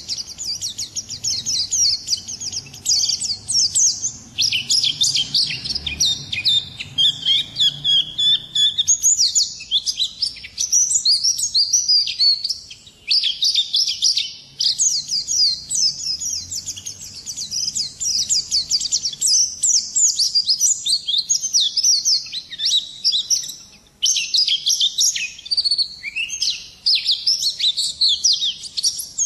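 A pleci (white-eye) singing nonstop: a fast, high twittering song of rapid chirps and quick trills, with short breaks about 13 and 24 seconds in.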